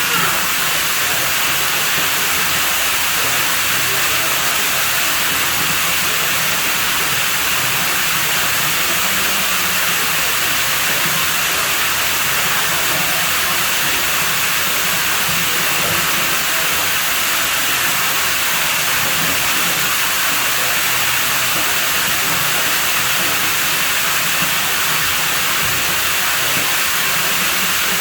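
Pool water running steadily, a continuous rushing hiss with no change throughout.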